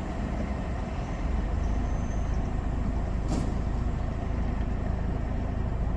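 Steady low rumble and hiss of a soft-touch automatic car wash running its rinse, mixed with a vehicle idling. A single short click about three seconds in.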